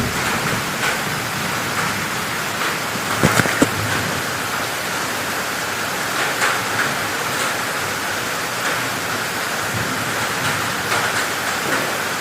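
Heavy rain pouring down in a steady hiss, with a few sharp louder spatters about three and a half seconds in.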